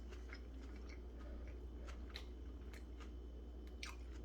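Faint chewing on a chicken sandwich: scattered soft, wet mouth clicks and ticks over a steady low hum.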